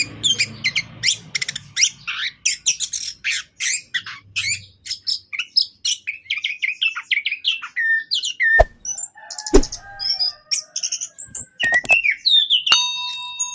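Orange-headed thrush singing vigorously and without pause: a fast, varied stream of sharp high notes and whistles. Two sharp clicks come about eight and a half and nine and a half seconds in. Steady ringing tones start near the end.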